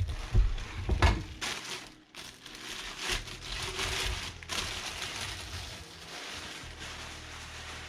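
Cardboard packaging rustling and crinkling as a boxed aluminium water pump is unpacked, with a couple of knocks in the first second or so.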